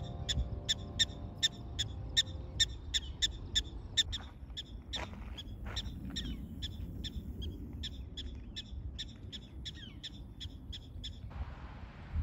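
A bird chirping over and over, about three short, high chirps a second, while background music fades out in the first couple of seconds. Near the end the chirping stops and a steady hiss takes over.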